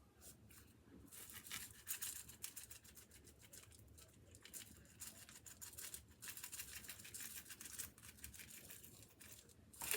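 Faint, irregular scratchy rustling from dry grill seasoning being applied to a raw brisket.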